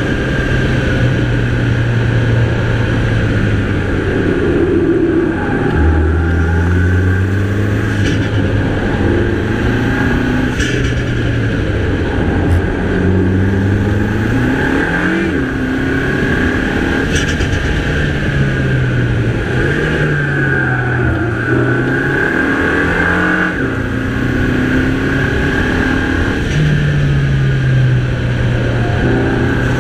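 Mini Cooper's 2.0-litre turbocharged four-cylinder engine under hard driving, its pitch repeatedly climbing under acceleration and dropping off between bends, with jumps in pitch at gear changes. A few short sharp clicks come through over the engine.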